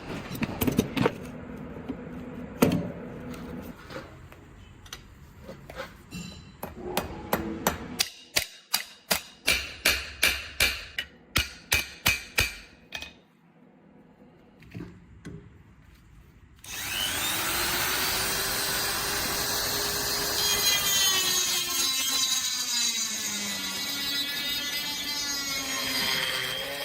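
Hammer blows in a workshop: scattered knocks, then a regular run of about a dozen strikes, about two a second. After a short pause a power tool starts and runs steadily to the end, its pitch wavering under load.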